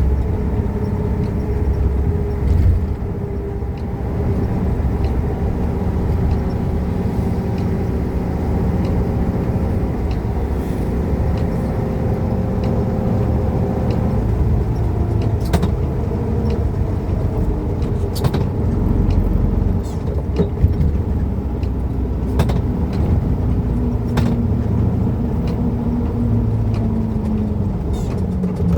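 Volkswagen Fusca (Beetle)'s air-cooled flat-four engine running in slow traffic, heard from on board. Its note rises briefly about two-thirds of the way through, with scattered clicks and knocks over the steady rumble.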